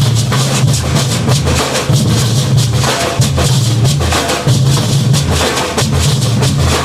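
Maracatu drum group playing a steady, dense rhythm: deep alfaia bass drums pounding under rattling snare drums and sharp hand-percussion strikes.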